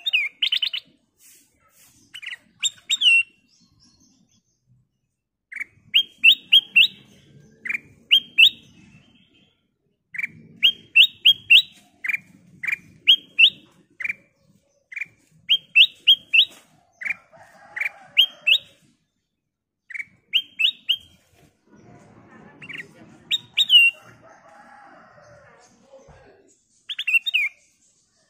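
Black-crested bulbul (kutilang emas) singing lively song phrases, short bursts of three or four quick rising chirps repeated every second or two, with brief pauses between bursts.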